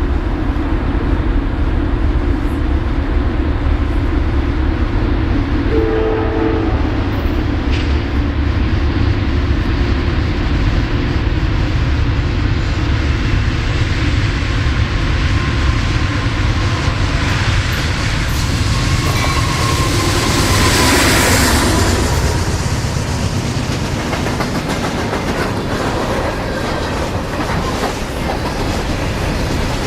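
Diesel-hauled train rolling past close by: a steady heavy rumble of locomotives and rail cars, with wheel clatter over the rail joints.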